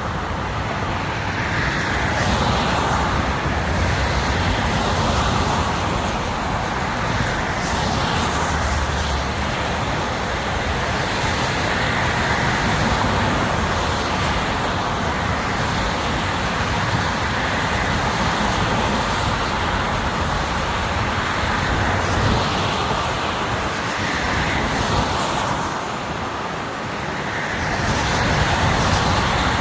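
Steady highway traffic noise, with vehicles swelling past every few seconds and a brief lull near the end.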